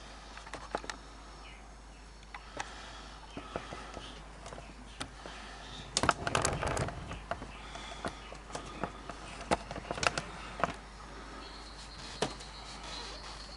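Hands handling cookie packaging: scattered clicks and knocks, with a denser rustling stretch about six seconds in, over a steady hiss of rain.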